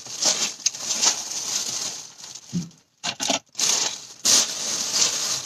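Crackling, rustling noise with brief dropouts about three seconds in.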